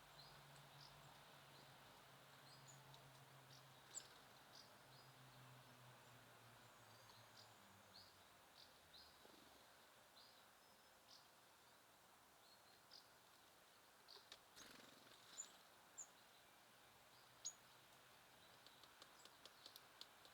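Faint, scattered short chirps and calls of small songbirds at a feeder, with a quick run of small clicks near the end. A faint low hum fades out around the middle.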